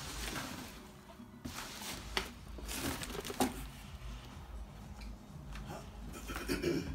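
Handling noise as a large cardboard shipping box is moved about: rustling and scraping with a few sharp knocks.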